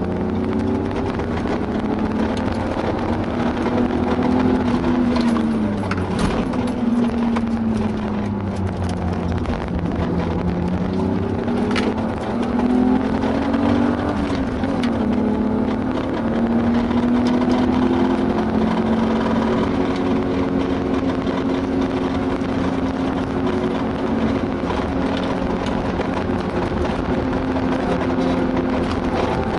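BMW E36 328i's 2.8-litre straight-six with a Remus cat-back exhaust, heard from inside the cabin at full throttle on track: the engine note climbs and drops back at each gear change, over tyre and wind noise.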